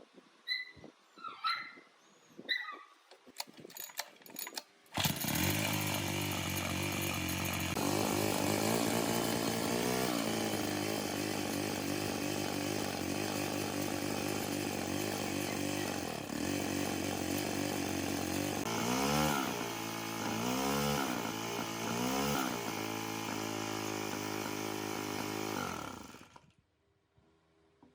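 The small gasoline engine of a restored vertical vibratory compactor starts suddenly about five seconds in and runs steadily. It is revved up and back down three times near the end, then shut off. Before it starts there are a few short chirping calls and some clicks.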